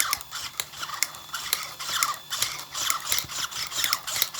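RC car drivetrain clicking sharply, about four clicks a second, each with a short falling whine from the drive. The clicking comes only under load and is suspected to be in the axle.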